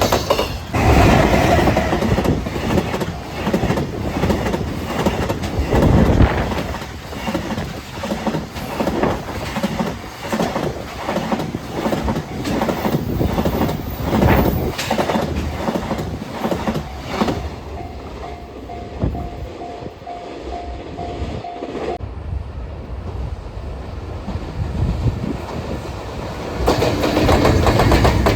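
Container freight train passing, wheels clacking steadily over the rail joints. About two-thirds of the way through the clatter eases, and a pulsing tone sounds for a few seconds before the rumble swells again near the end.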